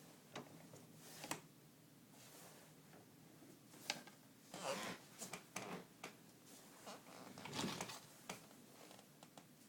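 Faint, irregular rustling and clicking from an African grey parrot moving about in a desk drawer, with a sharp tap about four seconds in and a short cluster of rustles near eight seconds.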